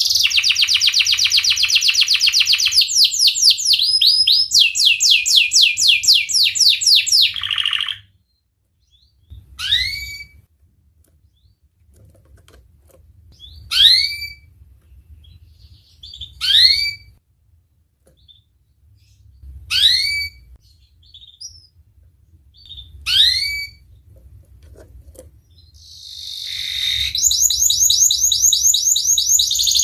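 Domestic canary singing: fast rolling trills of rapidly repeated high notes. After about eight seconds the trill stops, and five single rising chirps follow at intervals of about three seconds. The rolling trill starts up again near the end.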